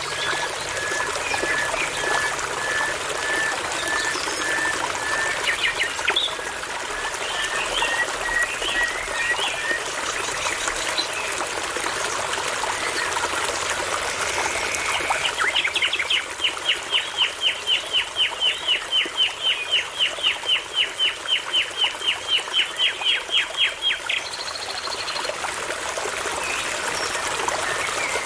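A songbird singing over a steadily babbling brook: a long run of short, evenly spaced piping notes for the first ten seconds or so, then, about halfway through, a fast trill of some thirty notes, about four a second, lasting about eight seconds.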